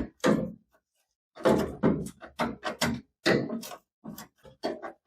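A rapid, irregular series of short clunks and knocks from exhaust parts being handled and fitted, as the aft muffler bracket that holds the tailpipe is worked into place.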